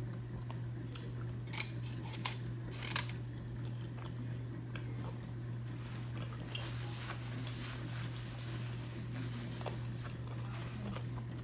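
A person chewing food close to the microphone, with scattered small mouth clicks and smacks, over a steady low hum.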